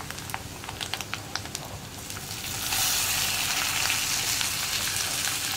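Dried fish sizzling in hot coconut oil in an iron pan, with scattered crackling pops. About two and a half seconds in, chopped onions go into the oil and the sizzle turns louder and steadier.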